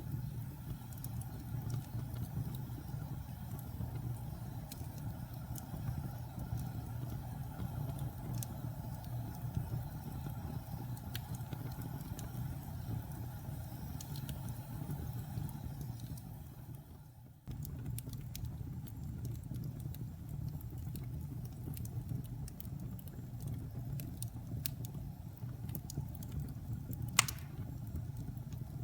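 Fireplace fire burning: a steady low rumble with scattered small crackles, and one sharp, loud pop near the end. About two-thirds of the way through the sound fades away for a moment and then starts again.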